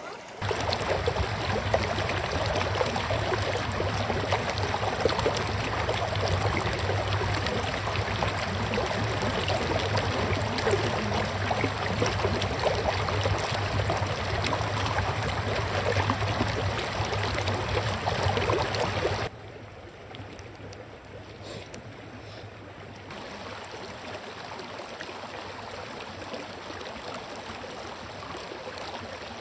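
River water rushing over rocks in a steady, loud flow. About two-thirds of the way through it cuts suddenly to a quieter, steady flow.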